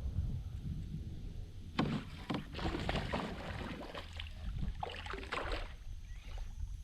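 Irregular knocks, rattles and splashy noises on a fishing kayak, bunched between about two and five and a half seconds in, over a steady low wind rumble on the microphone.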